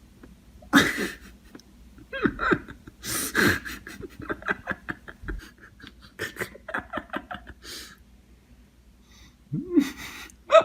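A person laughing in breathy bursts and quick runs of ha-ha pulses, with heavy breathing between them.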